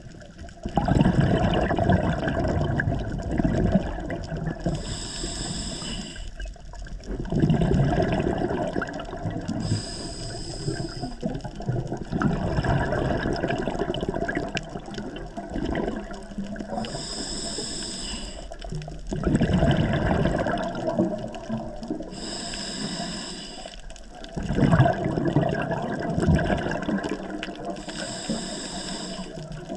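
A scuba diver breathing through a regulator underwater: loud gurgling bursts of exhaled bubbles about every five to six seconds, alternating with a short hiss from the regulator on each inhalation.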